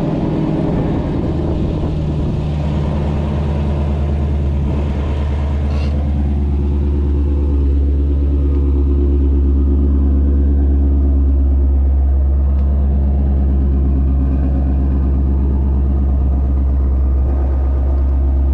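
Ford Shelby GT350's 5.2-litre flat-plane-crank V8 idling with a steady deep rumble just after being started; the idle evens out and grows slightly louder about seven seconds in.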